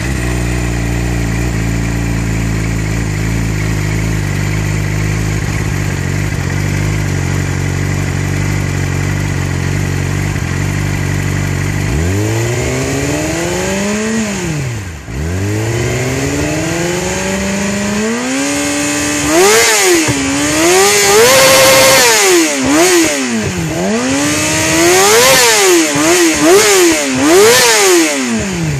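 Yamaha R6's inline-four engine through a BODIS full-system exhaust, idling steadily for about twelve seconds after a cold start, then revved in repeated throttle blips that rise and fall. From about twenty seconds in the revs climb higher and louder, with one rev held briefly.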